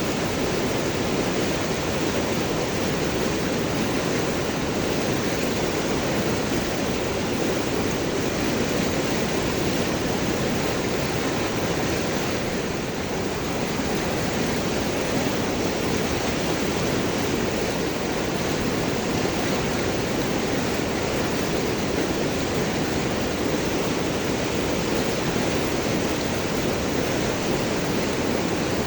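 River water rushing and gurgling over and around large rocks: a steady, dense rush with no distinct splashes.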